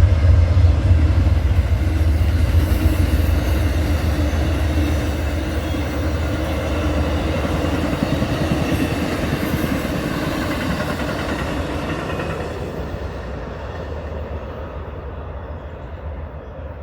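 Amtrak passenger train passing slowly: a deep rumble with wheel-on-rail noise, loudest at first and steadily fading as the train draws away.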